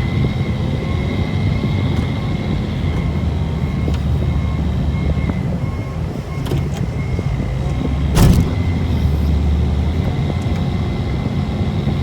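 Engine of a snow-plowing machine with a bucket and blade running steadily under load, with a thin steady whine over it. A single loud clunk comes about eight seconds in.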